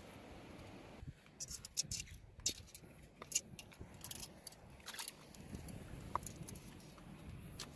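Irregular sharp clicks and short scrapes of a metal wire hook probing among rocks in a tide pool for crabs, starting about a second in.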